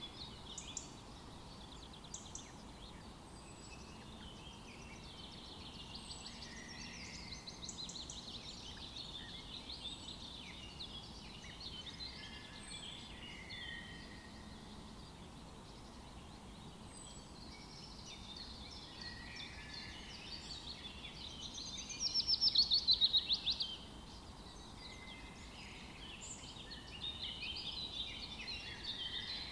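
A chorus of several songbirds singing in a forest over a faint steady hiss, with a thin high note repeating every couple of seconds. About 22 seconds in, one bird gives a loud, rapid trill lasting a second or two.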